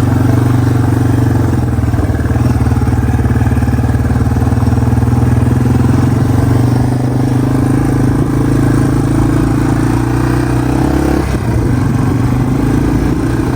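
Yamaha TW200's single-cylinder four-stroke engine running steadily, its pitch dropping a step about eleven seconds in.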